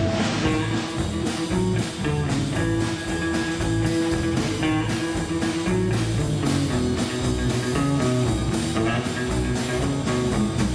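Live band playing an instrumental break between sung lines: guitar over a steady drum beat.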